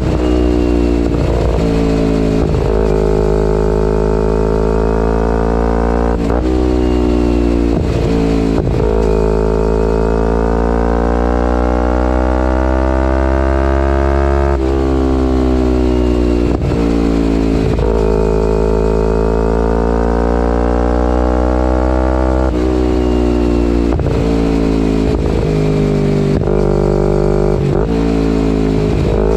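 2011 Kawasaki Ninja 250R's parallel-twin engine through a full Graves race exhaust, riding under load. The pitch climbs and falls with the revs, with many quick breaks where it drops and picks up again, as on gear changes, and one long slow climb in the first half.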